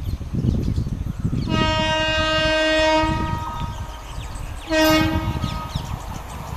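Indian Railways locomotive horn sounding twice, a long multi-tone blast of about two seconds, then a shorter one near the end, over the low rumble of the train.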